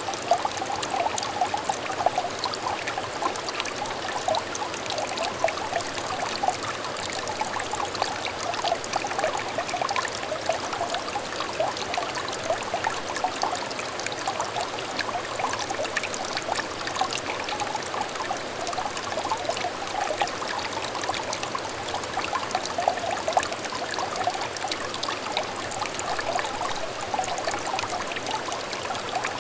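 Clear shallow stream trickling and babbling steadily, a constant wash of water with many small bubbling plinks.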